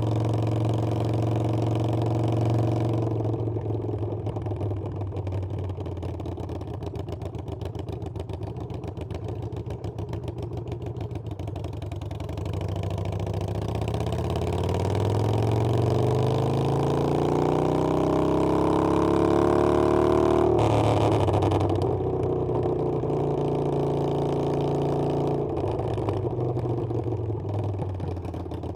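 Harley-Davidson Sportster Iron 883's air-cooled V-twin engine under way on a ride. It runs steadily, then revs up in one long climb in pitch, then drops sharply about two-thirds through, as at a gear change.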